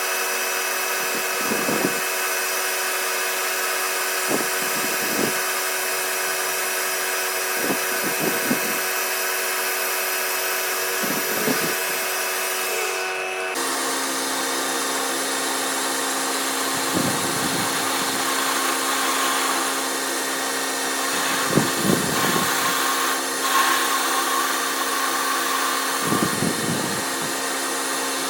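A power tool or machine-shop motor runs steadily, with a dull knock every second or two. About halfway through, the hum steps abruptly to a lower pitch.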